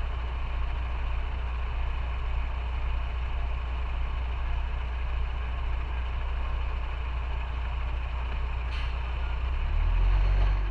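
Motorcycle engine running steadily, with a brief click about nine seconds in and a louder low rumble near the end.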